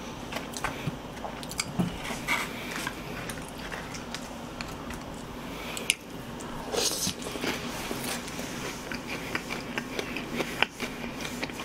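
Close-miked biting and chewing of fried chicken, with small crisp crunches and mouth clicks and a louder bite about seven seconds in.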